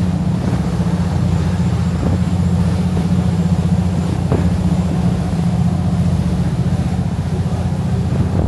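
Fishing boat's engine running at a steady cruise, a constant low drone.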